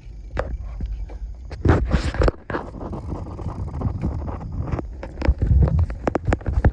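Wind buffeting a phone microphone and rumble from a bicycle rolling along a road, with scattered irregular clicks and rattles.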